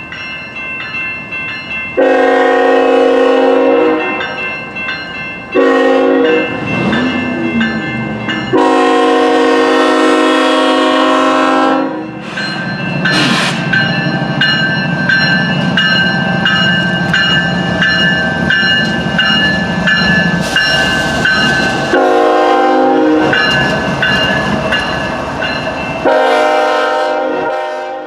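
Model train locomotive's onboard digital sound system sounding five long chord-like signal blasts. Between the middle blasts there are about ten seconds of steady low running sound with a repeating higher tone.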